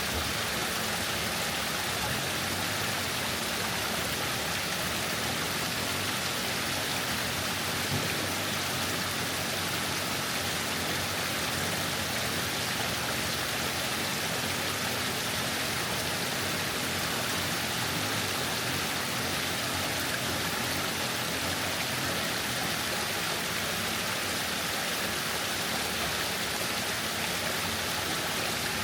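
Waterfall: steady rushing and splashing of falling water, unbroken throughout.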